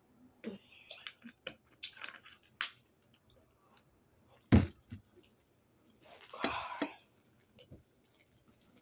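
Close-miked eating: chewing with scattered wet mouth clicks, a single sharp knock about four and a half seconds in, and a short rush of noise a little over six seconds in.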